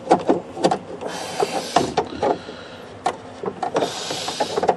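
Handling noise as a gauge is tried for fit in a car's dashboard: a string of light knocks and clicks, with a rubbing, scraping stretch near the end.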